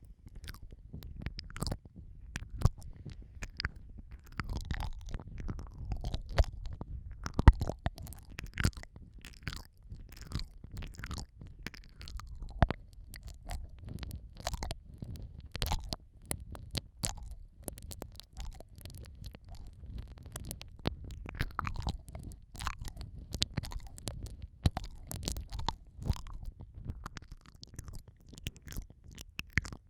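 Close-up ASMR mouth sounds on a microphone: wet licking, smacking and kissing, with many small irregular clicks and a low rumble from contact with the mic, as in simulated ear-eating.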